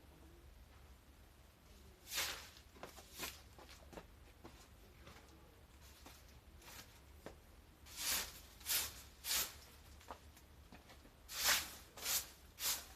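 Short rustling strokes from storm debris and foliage being cleared by hand, coming in runs of two or three about half a second apart with quieter gaps between.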